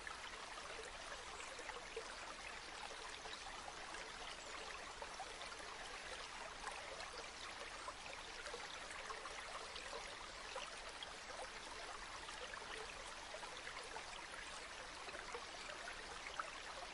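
A river flowing steadily: an even rush of water with small splashes scattered through it.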